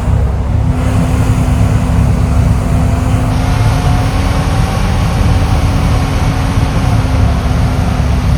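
Heavy diesel snow-removal machinery running steadily under load: a loud, deep rumble with a steady hum.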